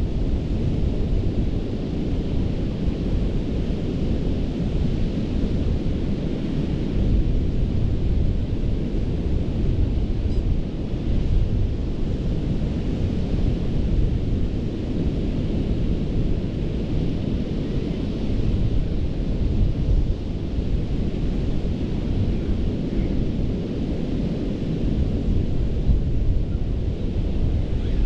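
Gulf of Mexico surf washing up a sandy beach in a steady, continuous wash of waves, with a low rumble of wind buffeting the microphone.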